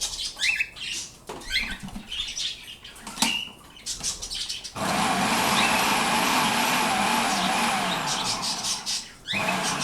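A pet bird chirps with short rising calls and clicks. About five seconds in, an electric kitchen chopper runs steadily for about four seconds, chopping cauliflower fine, and then the chirping resumes.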